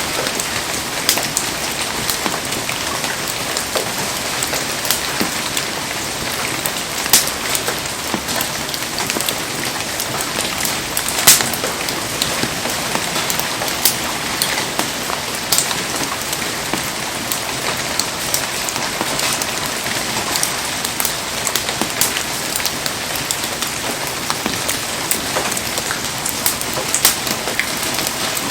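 Heavy rain falling steadily, with frequent sharp ticks and pops scattered through it. The loudest pop comes about eleven seconds in.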